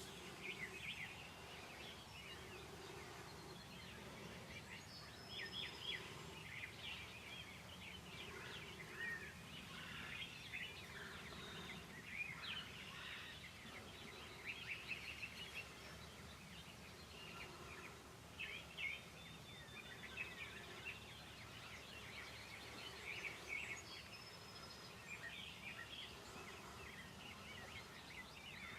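Wild songbirds chirping and singing: many short, quick notes and song phrases, a few high thin whistles among them, over a faint steady outdoor background.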